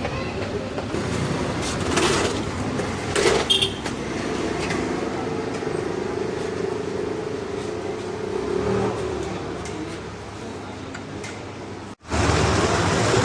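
A motor vehicle engine running steadily, with a couple of short knocks in the first few seconds. The sound breaks off abruptly about twelve seconds in and resumes louder.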